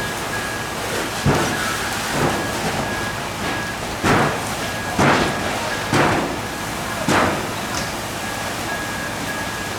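Steady rushing noise at a fire scene with a high beep repeating on and off, broken by six short loud bursts, four of them about a second apart.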